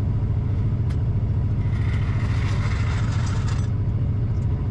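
A truck engine running steadily at idle. About two seconds in, a hiss lasts for about two seconds.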